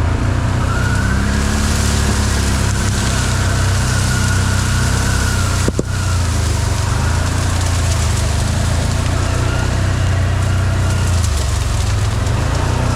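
Can-Am side-by-side's engine running steadily. A faint whine rises and falls over the first few seconds, and there is a single sharp knock about six seconds in.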